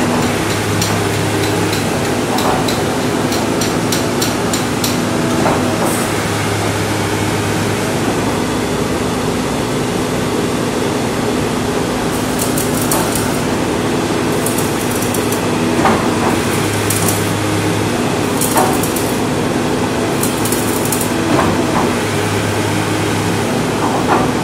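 Kobelco excavator running steadily, with a low hum that comes in and drops out every few seconds, scattered sharp knocks, and short bursts of hissing in the middle.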